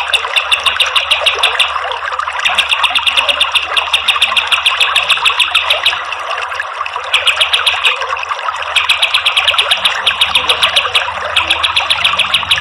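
Kapas tembak bird singing rapid-fire bouts of fast repeated sharp notes, each bout a second or two long with short breaks, over a steady trickle of running water.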